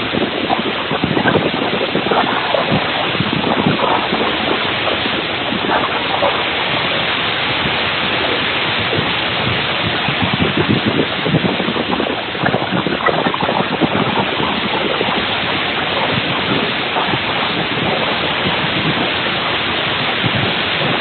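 Water rushing steadily in a loud, even roar, as of floodwater or a heavy downpour.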